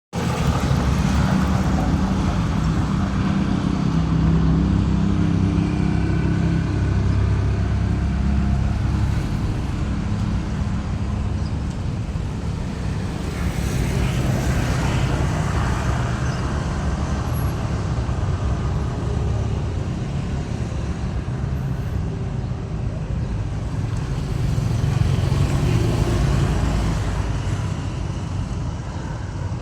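Steady low rumble of road traffic, swelling about halfway through and again near the end as vehicles pass.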